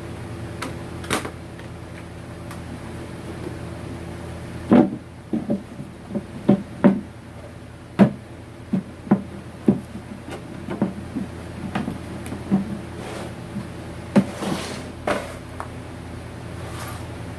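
A series of irregular knocks and clicks, as of hard objects being handled and set down, from about five seconds in until near the end, over a steady hum.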